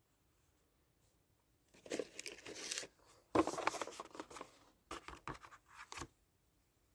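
Three bursts of close crinkling and rustling, each about a second long, like material or packaging being handled or torn.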